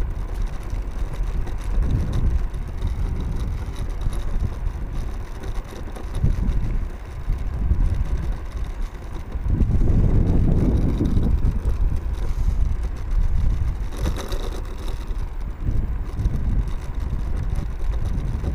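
Wind buffeting the microphone of a Mercane electric kick scooter on the move: a loud, uneven low rumble that swells about ten seconds in.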